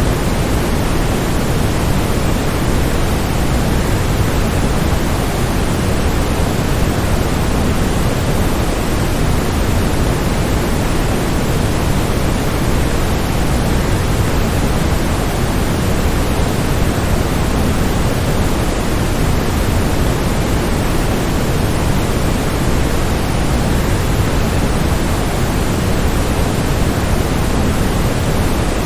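Waterfall: falling water making a steady, unbroken rushing noise, heavy in the low end, with no change in level.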